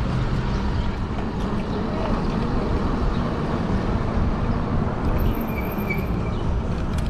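Steady rumble of wind on the microphone and tyre noise from a fat-tire e-bike in motion, with a brief faint high tone about five seconds in.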